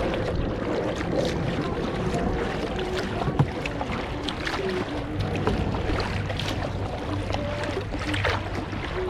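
Kayak paddling on the river: the paddle blades splashing and dripping in irregular strokes over a steady hiss of water and wind.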